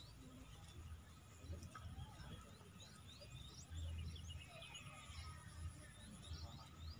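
Small birds chirping and twittering in many short, quick calls, over a faint steady high-pitched tone that stops near the end and a low uneven rumble.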